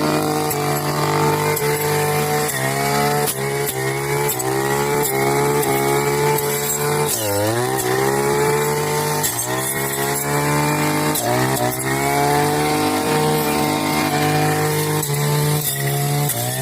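Petrol grass cutter (brush cutter) engine running at high revs while clearing grass. Its pitch sags briefly and recovers every few seconds as it takes load, with one deep drop and climb back about seven seconds in.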